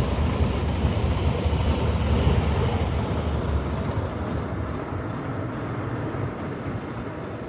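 Train running on the rails, a steady low rumble that slowly fades away.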